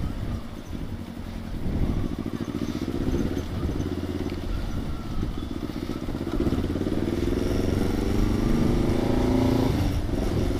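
Kawasaki Ninja 650's parallel-twin engine running under way, its note climbing steadily through the second half as the bike accelerates.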